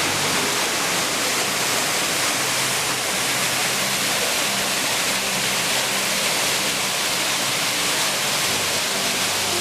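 Waterfall cascade rushing, a steady loud hiss of falling water that doesn't change.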